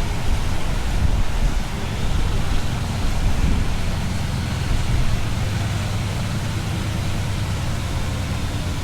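Scania V8 diesel truck engine with an open-pipe exhaust running steadily at cruising load, a deep low rumble under a hiss of wind and road noise.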